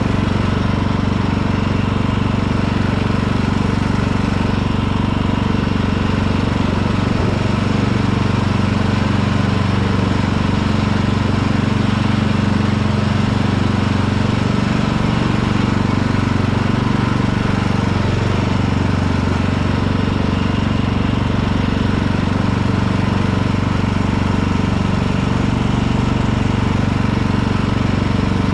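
Riding lawn tractor's engine running steadily as the tractor is driven along, mower blades not engaged.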